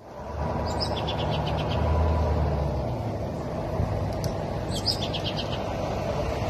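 A songbird singing twice, each phrase a high note followed by a fast trill, over a steady low rumble.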